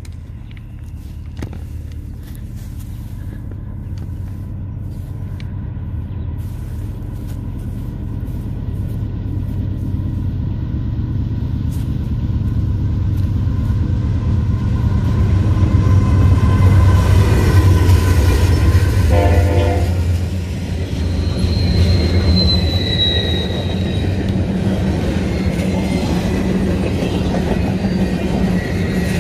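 Diesel freight train approaching and passing: the locomotive's deep engine rumble grows steadily louder, with a horn sounding as it comes. The double-stack intermodal cars then roll by with rumbling wheels and a brief high wheel squeal.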